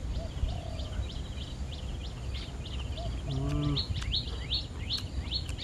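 A bird singing repeated short, high, downward-sweeping notes, which speed up into a fast run in the second half, over a steady low background rumble. A brief low human vocal sound comes about halfway through.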